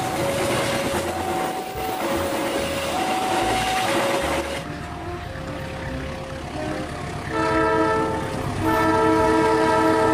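A passenger train rushes past on the rails, with a slow two-note alternating tone sounding over the noise. Near the end, a diesel locomotive's horn sounds two long multi-note blasts as it approaches.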